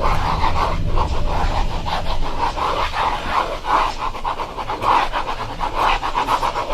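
Rhythmic scratching and rubbing right against a 3Dio binaural microphone, about three to four quick strokes a second, over low background music.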